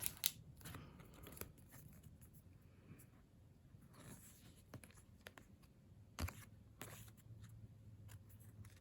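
Faint handling of paper and plastic merchandise packaging: light rustles and a few soft taps, the sharpest about six seconds in.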